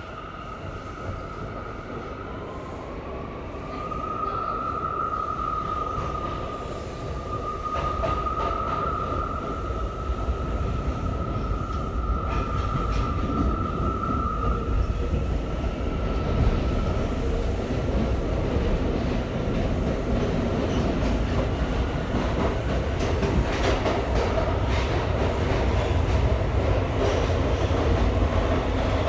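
R179 subway car running between stations, heard from inside the car: a steady rumble of wheels on rail with scattered clicks over the rail joints, growing louder. A high whine sits over it, rises in pitch about two seconds in and fades out after about sixteen seconds.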